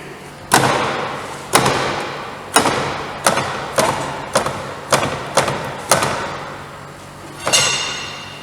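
Heavy knocks on a car's chassis, about ten of them at uneven intervals, each with a short ring-out in a large hall. The last knock, near the end, is hissier.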